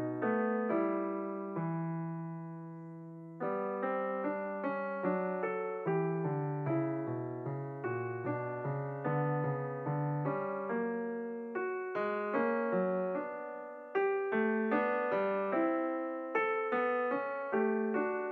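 Background piano music: a slow melody of struck notes over chords, with a held chord that fades about two seconds in before the playing resumes.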